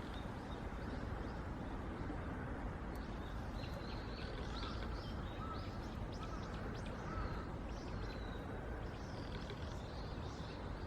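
Small wild birds chirping and twittering in short high calls, busiest through the middle of the stretch, over a steady low background hum.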